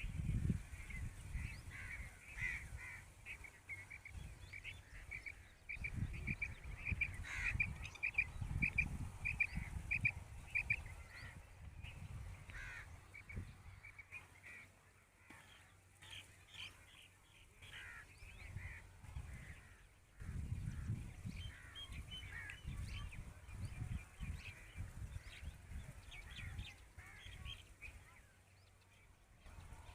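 Birds calling: runs of short high notes repeated about twice a second, with other scattered calls later on. A low rumble comes and goes underneath.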